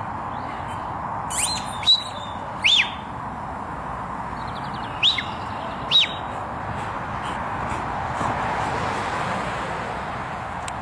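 Small birds chirping: about five short, high chirps in the first six seconds, with a brief rapid trill between them, over steady background noise.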